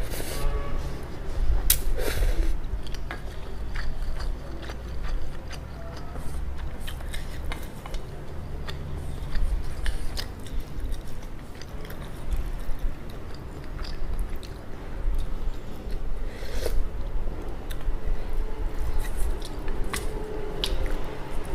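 Close-miked chewing of instant ramen noodles: soft wet mouth clicks and crackles at an irregular pace. Near the end, chopsticks and a spoon click against a stainless steel bowl.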